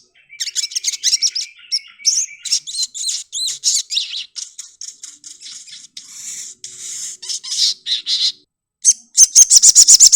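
Crimson sunbird (sogok ontong) singing: a varied run of quick, high chirps and twitters, then, after a short break near the end, a fast string of evenly repeated sharp notes.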